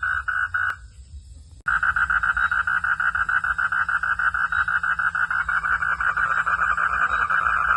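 Frogs calling in a rapid, even pulsing chorus over a steady low rumble. The calling cuts off suddenly about a second in and starts again just as suddenly a second later, pulsing faster than before.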